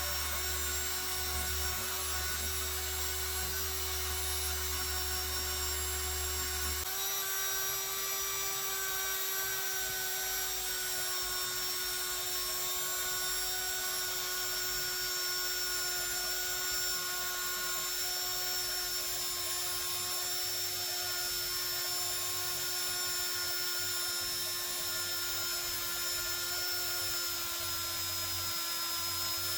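Power tool spinning a wire wheel at a steady speed, brushing rust off the antique iron ice claw. It runs with a steady whine.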